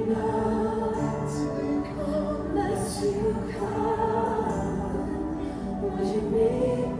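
Worship music: a group of voices singing long, held notes over a steady accompaniment.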